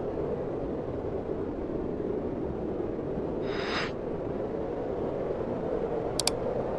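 Steady low rush of snowstorm wind, with a brief hiss about halfway through and two sharp fireplace crackles near the end.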